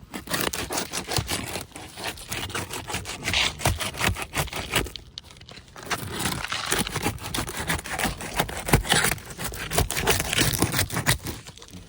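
Tamko asphalt shingle being pried up off its seal: gritty scraping and crackling with many small sharp cracks, with a short pause about five seconds in. The cracking is the brittle shingle breaking as it is lifted.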